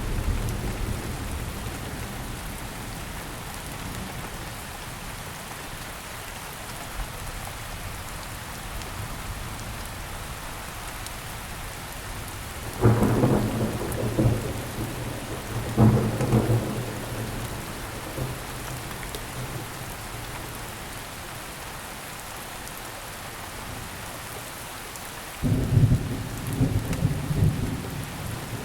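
Steady heavy rain hissing, with sudden rumbles of thunder a little before halfway through, again about three seconds later, and a longer rolling one near the end.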